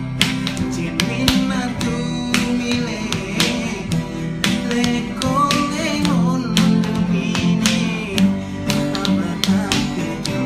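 Acoustic guitar strummed in a steady rhythm of sharp strokes over ringing chords.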